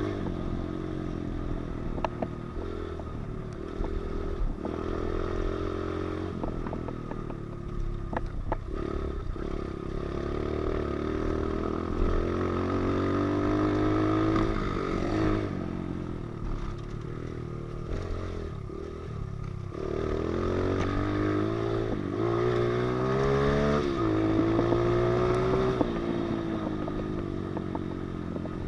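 Pit bike engine running under riding load, its pitch rising as it revs up and dropping off again several times, with scattered clicks and rattles.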